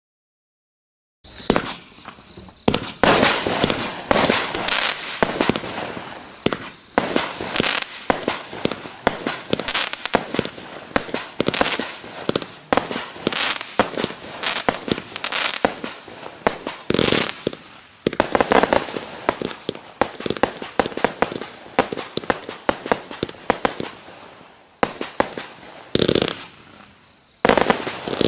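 A 268-shot, 20 mm compact firework cake firing, starting about a second in. It lets off a rapid, dense string of sharp bangs with crackling between them, which thin out to a few spaced reports near the end.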